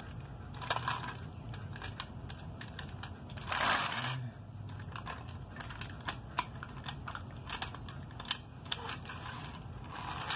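Light plastic clicks and taps of an HO-scale model train being handled on the track, over a steady low hum, with a brief rustle about four seconds in.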